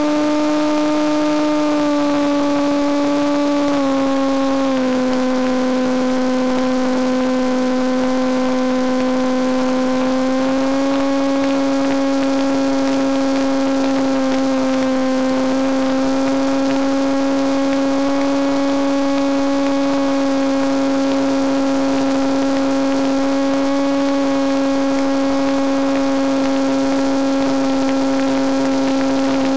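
Electric motor and propeller of a Penguin FPV model airplane running steadily under throttle, a loud humming whine with overtones. Its pitch steps down a little a few seconds in and rises slightly again about halfway through.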